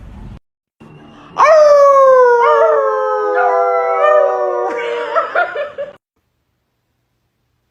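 A dog howling: one long howl of about three seconds that slides slowly down in pitch, ending in a few short broken notes before it cuts off.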